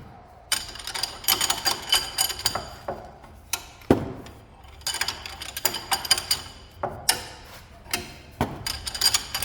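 Ratchet wrench clicking in repeated short bursts, with metallic ringing, as a tight, heavy-turning suspension bolt is worked loose.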